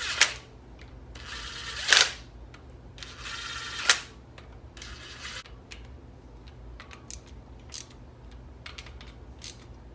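Metal front-hub parts being handled and fitted: three sharp metallic clicks, each with a brief rasp, in the first four seconds, then a series of lighter clicks.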